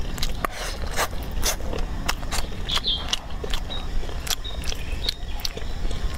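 A person chewing a mouthful of food, mouth closed: a run of irregular clicks and smacks, several a second.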